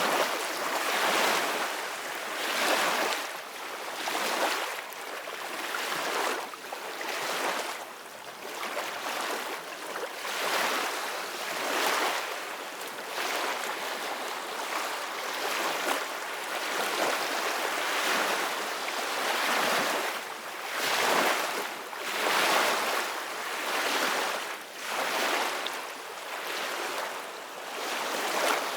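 Sea waves splashing and breaking in repeated surges, each swell rising and falling away every second or two.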